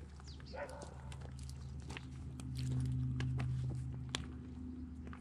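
A dog whines briefly about half a second in, over a steady low hum and scattered light clicks.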